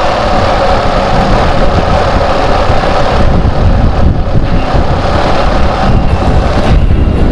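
BMW R1200GS motorcycle's boxer-twin engine running steadily on the road, with wind noise over the microphone.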